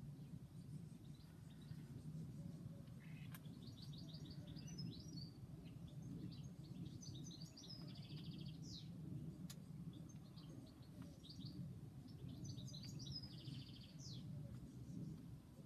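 A small songbird singing in short, quick phrases every few seconds, several ending in a rapid trill, over a faint steady low background hum.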